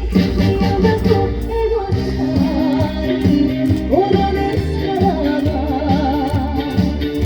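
Live trot song on a stage sound system: a backing track with a steady beat under a woman's sung melody, held notes wavering with heavy vibrato.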